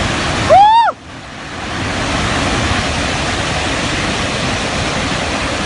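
Steady, loud rush of floodwater from the collapsed dam's river. About half a second in, a person lets out one short exclamation that rises and falls in pitch.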